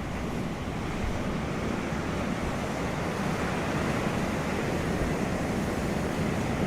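Wind blowing across the microphone: a steady low rushing that grows slightly louder over the first second or so.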